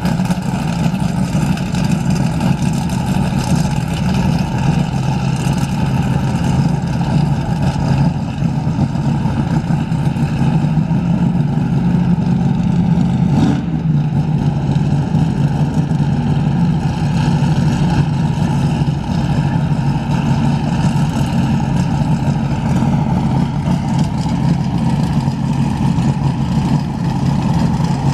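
Loud race-car engine running steadily for the whole stretch, with no clear revving up or down.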